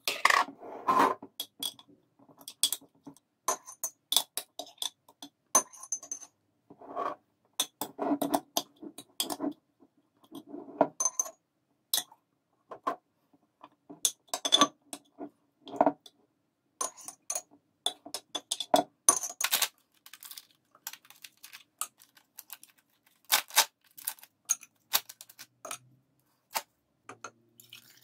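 Irregular light clinks and knocks of tableware, small hard objects tapping and scraping against dishes, some ringing briefly, with softer handling rustles in between.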